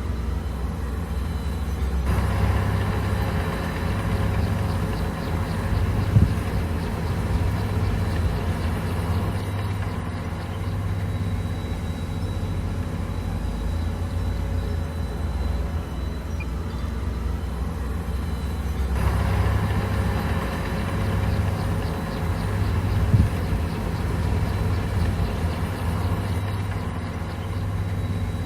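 Komatsu bulldozer's diesel engine running, with its note rising under load twice for several seconds at a time. A single sharp knock comes during each loaded stretch.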